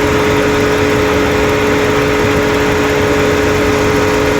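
Ford Explorer 3.5-litre V6 idling, a fast even beat in its low end with a steady whine over it. The engine noise, likened to a broken piston or rod knock, is still present after the repair attempt.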